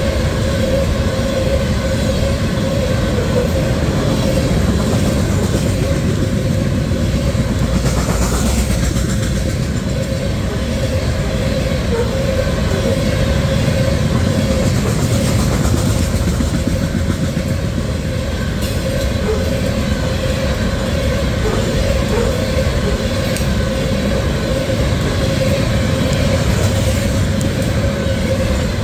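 Loaded coal hopper cars of a freight train rolling by at about 50 mph: a loud, steady running noise of steel wheels on the rails, with a steady high tone running under it.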